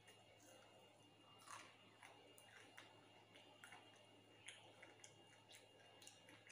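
Faint chewing and crunching of a fried cutlet coated in crisp Maggi noodles, a scatter of small crackles, the clearest about one and a half seconds in.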